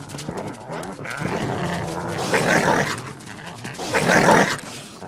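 Coyotes growling and snarling at one another in a dominance scuffle within the pack, with two loud snarling outbursts about halfway through and near the end.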